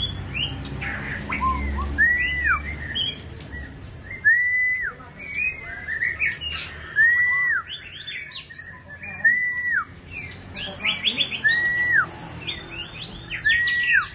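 A young songbird singing: a clear arched whistle repeated about every two seconds, with quick chirps and twitters between, and a rapid run of sharp notes near the end.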